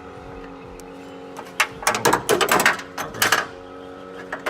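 Irregular sharp metallic clicks and clanks of hand tools at an engine's idler pulley and accessory belt, as a new idler pulley is fitted and its bolt worked on. They come in a cluster from about a second and a half to three and a half seconds in, with a few more near the end, over a steady low hum.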